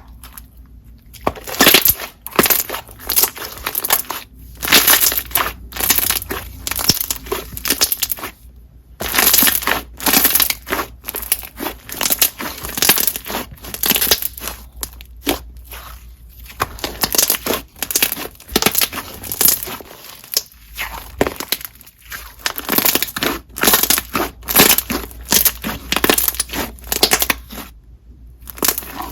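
Coated clear slime being squished and worked by hand, giving crisp clicks and bubble pops in quick, irregular runs with brief pauses.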